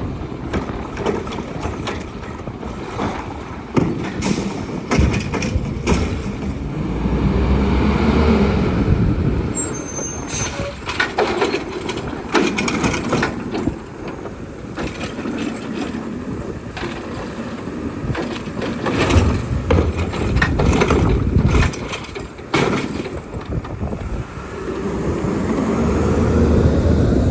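Garbage truck working: its diesel engine rises in surges three times, with repeated metallic clanks and knocks.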